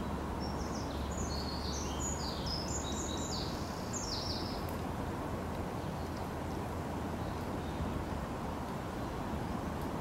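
A small songbird sings one quick phrase of short high notes, fading out about four seconds in, over a steady low rumble of outdoor background noise.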